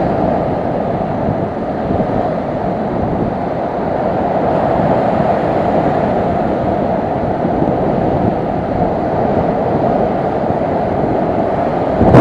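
Strong, steady wind buffeting the microphone over rough sea surf at high tide.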